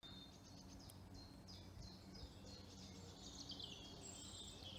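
Faint woodland birdsong: many short, repeated high chirps, over a low steady hum.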